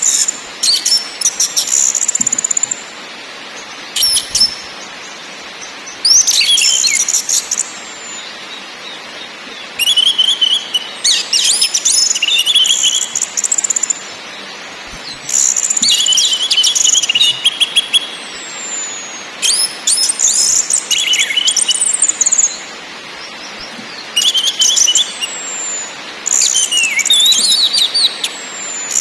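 Orange-headed thrush (anis merah) singing: varied, fast-changing high-pitched phrases of one to three seconds, some with falling whistles, repeated about eight times with short pauses in between, over a steady background hiss.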